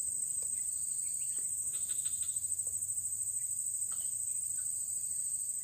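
Insects chirring in one steady, high-pitched trill that pulses evenly, with a few faint ticks.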